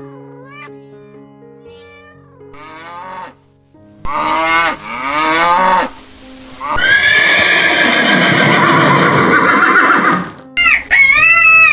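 Animal calls over background music: a few soft short calls at first, then several louder calls that bend up and down in pitch, and one long loud call lasting about three seconds near the end.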